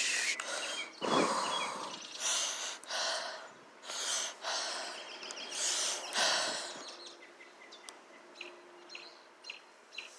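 Breaths or puffs of air close on the microphone, coming irregularly for about seven seconds, then fading into faint short bird chirps near the end.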